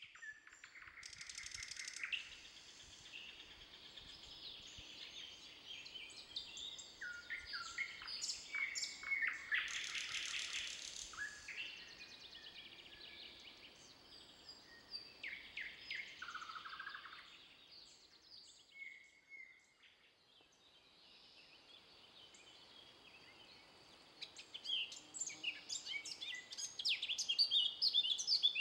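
Several songbirds singing at once in woodland, with overlapping chirps, trills and whistled phrases; the song thins out for a few seconds past the middle and grows dense again near the end.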